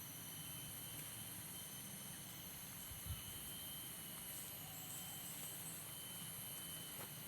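Insects, such as crickets, chirring steadily in several high pitches at once, with a single soft, low thump about three seconds in.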